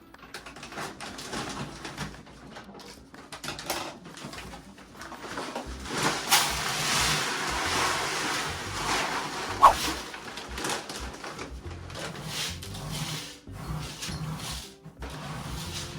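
Cat litter rustling and scraping as a litter box is scooped and cleaned, loudest as a rough hiss from about six to ten seconds in, with scattered light clicks. A brief high squeak cuts through just before the ten-second mark.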